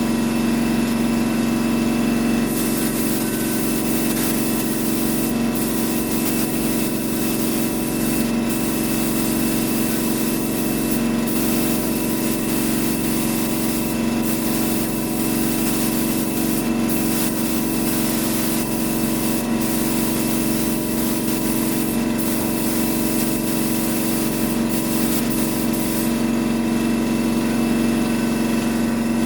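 Air-powered paint spray gun hissing as it sprays clear coat, in long passes broken by short pauses every few seconds, over the steady hum of a running air compressor.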